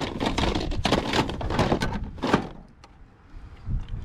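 Objects being handled and shifted while rummaging through a pile of junk: a run of knocks, clunks and rustling, with one sharp knock a little over two seconds in, then a quieter spell near the end.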